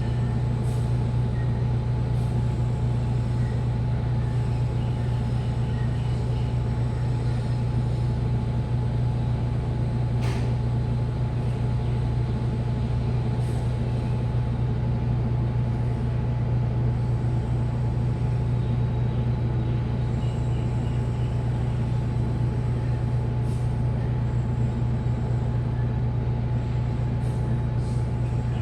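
Washing machine drum spinning at a steady high speed, a constant low hum with a faint steady whine above it. One brief click about ten seconds in.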